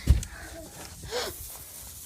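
A child's short gasp-like vocal sound about a second in, after a low bump of wind on the microphone at the start, over a faint steady hiss.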